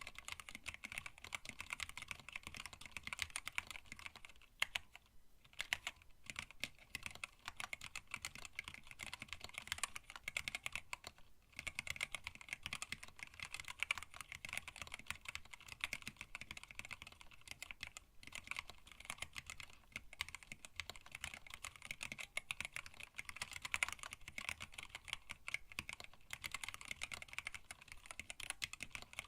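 Typing on a hand-wired split mechanical keyboard with Tealios linear switches, an acrylic case and PBT keycaps: a steady stream of keystroke clacks, with a brief pause about five seconds in and another near eleven seconds.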